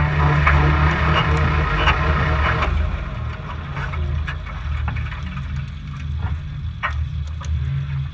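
Off-road race car's engine running low and steady, with dense crunching and clattering over the first few seconds that then dies down to occasional clicks.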